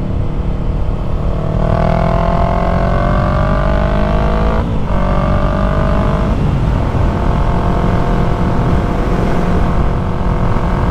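2020 Yamaha MT-03's parallel-twin engine through an aftermarket full-system exhaust, heard from the moving bike. About a second and a half in it pulls up through the revs. It breaks off briefly for an upshift midway and pulls again, then settles into a steady cruise.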